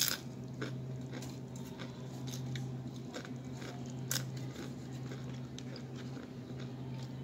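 Tortilla chips of fajita steak nachos being bitten and chewed: a sharp crunch at the start, another about four seconds in, and smaller chewing crunches between them, over a steady low hum.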